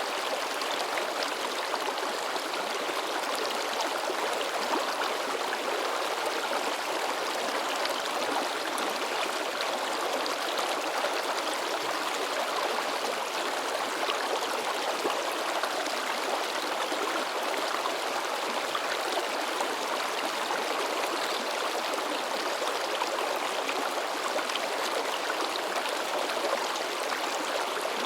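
Rocky forest stream babbling and splashing over stones, a steady, unbroken rush of water.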